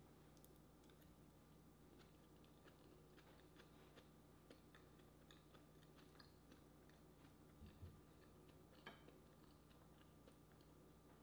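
Faint chewing and wet mouth sounds of a person eating, with soft scattered clicks over a low steady hum; a slightly louder soft knock about eight seconds in and a click just after.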